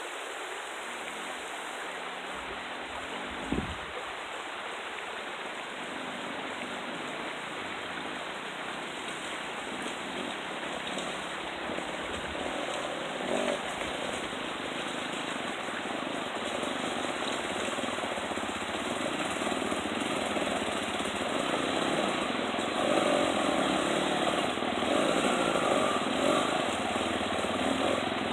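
Dirt bike engines running steadily, growing louder toward the end, with a single thump about three and a half seconds in.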